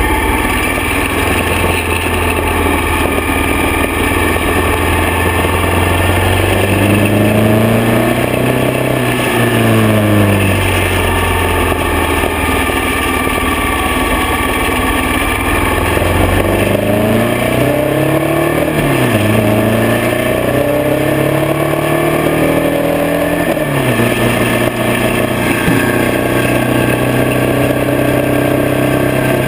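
Harley-Davidson Springer Softail's V-twin engine under way. Its pitch climbs as it accelerates and falls back sharply about three times, as at gear changes, over steady wind and road noise.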